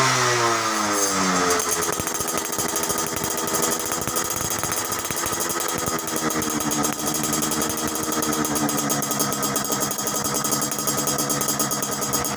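Yamaha Alfa two-stroke motorcycle running through an aftermarket exhaust with a silencer insert: the revs fall away in the first second or so, then it idles with a fast, crisp crackle of exhaust pulses.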